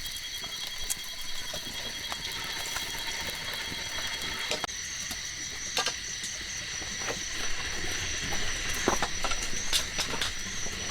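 Insects trilling steadily in several high pitched bands, some pulsing, with scattered sharp clicks and knocks in front of them.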